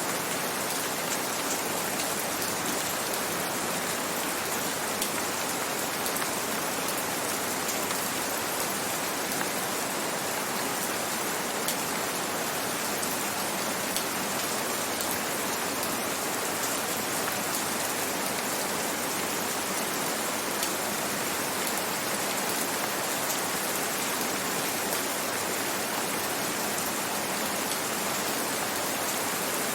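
Steady gentle rain: an even hiss with scattered, sharper drop ticks.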